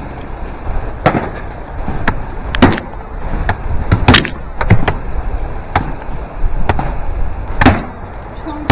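Repeated sharp strikes of a hand tool chopping and breaking ice, about a dozen irregular blows roughly one every half-second to second, over a low rumble.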